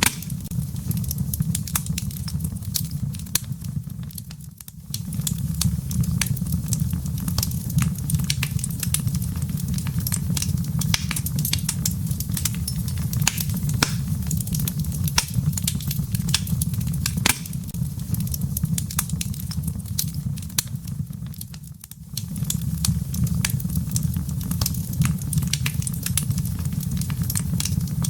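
Wood fire burning in a fireplace: a steady low rumble of flames with frequent sharp crackles and pops from the burning firewood. The rumble dips briefly twice, about four seconds in and again near twenty-two seconds.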